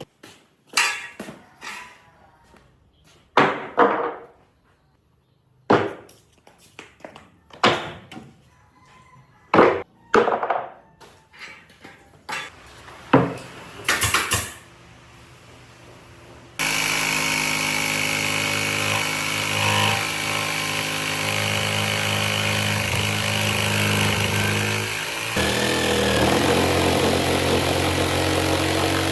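A string of separate knocks and strikes on wood, about a dozen, then a power tool starts abruptly a little over halfway through and runs steadily.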